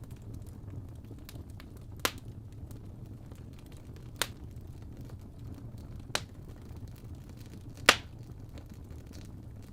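Wood fire crackling in a fireplace: a steady low noise with faint small crackles and four sharp pops, the loudest near the end.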